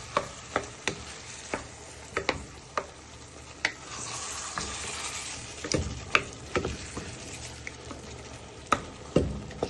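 A wooden spoon stirring and breaking down tomatoes in a pan of frying chicken and spices, knocking irregularly against the pan over a steady sizzle.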